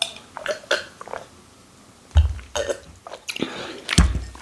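A person burping after eating and drinking, two loud burps about two and four seconds in, with a few small clicks between.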